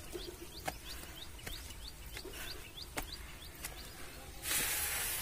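A small bird calling a fast series of short rising chirps, about four a second, that stop after about three and a half seconds, with a few sharp clicks. Near the end comes a loud rushing noise lasting about a second.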